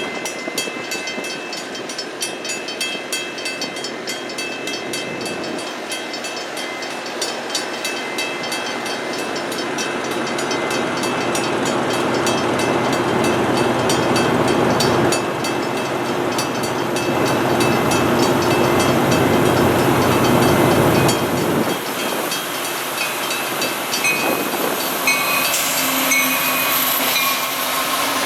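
A CN freight train hauled by two EMD SD75I diesel-electric locomotives passing, with diesel engine and wheel-on-rail noise. A rapid regular clicking runs through the first part, and the sound grows louder toward the middle.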